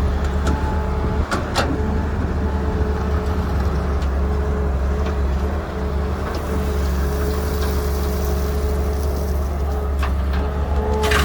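Heavy diesel engine of earthmoving machinery running steadily: a deep low rumble with a steady whine above it, and a few sharp clicks about a second and a half in.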